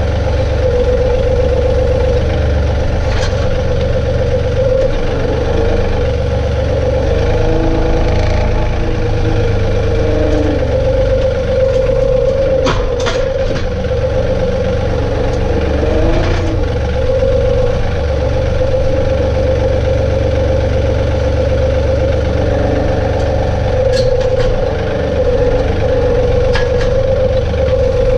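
John Deere 2032R compact tractor's three-cylinder diesel engine running steadily with a constant hum, and a few short clacks now and then.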